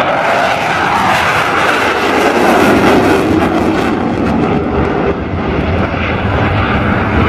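An airplane in flight, its engine noise a steady, loud rush.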